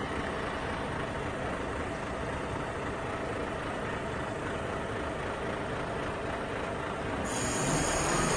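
An engine running steadily. About seven seconds in, the sound turns brighter and a little louder, and a steady low hum joins it.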